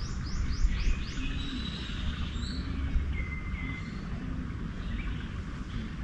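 Garden birds calling: a quick run of about five downward-sweeping chirps in the first second, then scattered whistled notes. A steady low rumble runs underneath.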